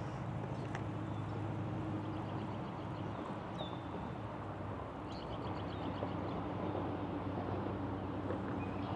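Steady outdoor background rumble with a low hum, with faint bird chirps and trills now and then.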